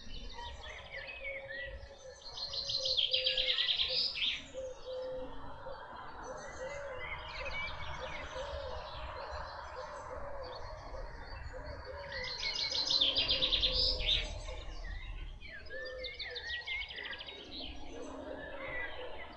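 Several wild birds singing together in woodland, with many short chirps and whistles. A loud, rapid trilled phrase stands out twice, about three seconds in and again about thirteen seconds in.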